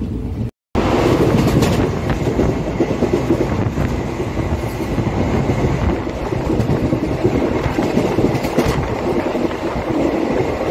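Passenger train running at speed, heard from the coach's open doorway: a steady, dense rumble and rattle of the wheels on the track.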